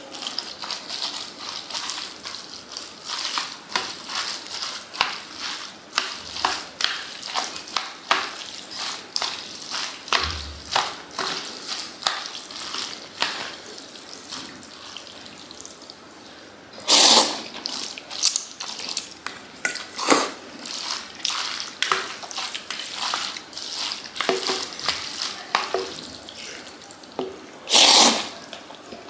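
Kitchen sink work: water splashing and dripping with many light knocks and clinks, and two short, loud rushes of water, about halfway through and near the end.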